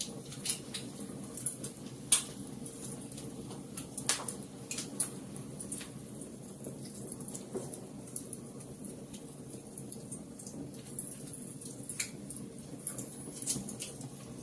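Wood fire in a fireplace crackling: irregular sharp pops and snaps over a low steady rumble of burning, with the loudest pop about two seconds in.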